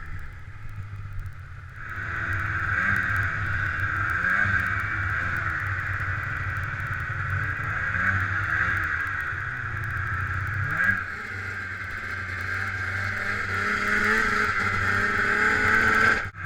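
Two-stroke Ski-Doo snowmobile engine running under way, its pitch rising and falling as the throttle is worked, over a steady high hiss. It is quieter for about the first two seconds, then louder, and dips briefly just before the end.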